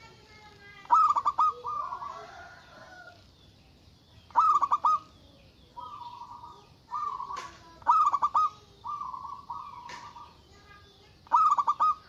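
Zebra dove (perkutut) cooing: four loud phrases of rapid staccato coos, about three and a half seconds apart, with softer drawn-out coos between them.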